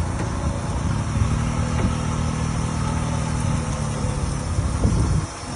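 Large engine running with a low rumble and a steady low hum through the middle; the sound drops off abruptly about five seconds in.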